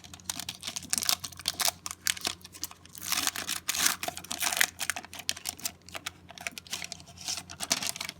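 Trading card pack wrapper crinkling and rustling as it is worked open by hand, with many small clicks. The crinkling is densest about three to five seconds in. A steady low hum runs underneath.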